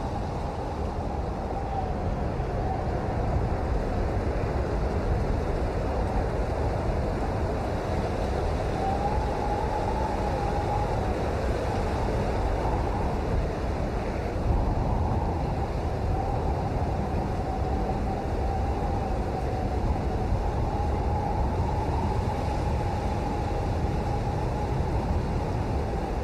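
Steady rain noise with a deep, even rumble and no breaks. A thin tone wavers slowly up and down beneath it.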